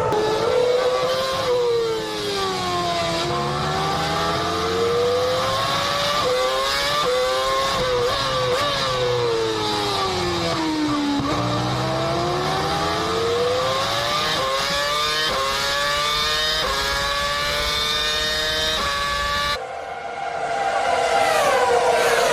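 Formula One car engine revving. Its pitch climbs in steps with a break at each upshift, and it twice falls smoothly as the car slows. About three seconds before the end a cut brings in a different engine sound.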